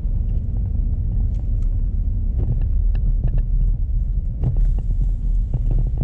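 Road noise of a car heard from inside the cabin: a steady low rumble from engine and tyres, with scattered small clicks and knocks.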